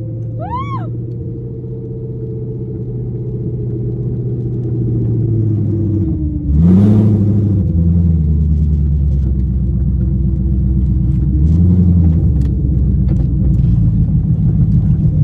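Loud car engine running with a deep rumble, its pitch slowly sinking, then a sudden sharp rev about six and a half seconds in that rises and falls back; it keeps running louder after that, with another rev swell near twelve seconds.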